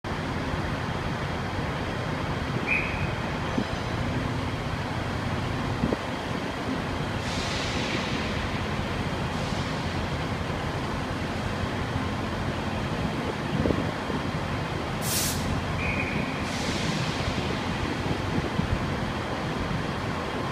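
ScotRail Class 170 Turbostar diesel multiple unit pulling slowly into the platform, its diesel engines running with a steady rumble. Two short hisses and two brief high squeaks come and go over the top.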